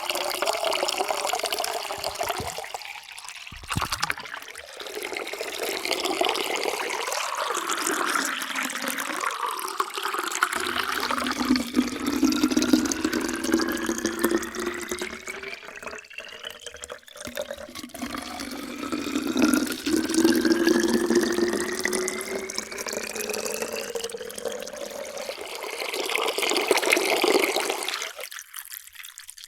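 Water poured into a vessel, gurgling and splashing, with a ringing tone whose pitch rises slowly as the vessel fills. The pour stops and starts again a few times, with short breaks between fills.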